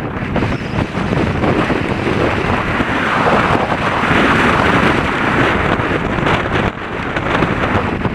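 Strong wind buffeting the microphone in a loud, steady rush, swelling hardest about three to six seconds in.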